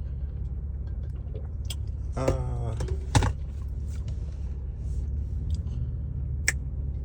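Car engine idling with a steady low rumble, a brief voice about two seconds in, and a couple of sharp clicks.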